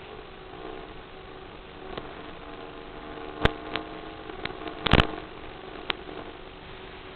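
Steady engine hum of a taxiing airplane, with several short sharp clicks in the middle, the loudest a double click around five seconds in.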